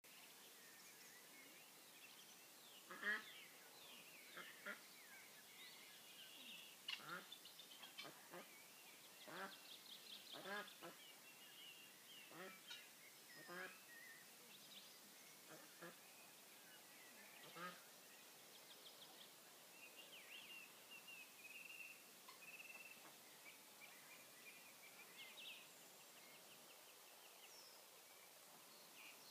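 Faint bird calls: a string of short single calls, a second or two apart, over the first half or so. Smaller birds twitter and trill more thinly later on.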